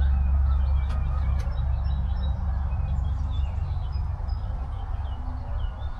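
Small songbirds chirping and calling over and over, over a steady low rumble that eases slightly after about a second and a half.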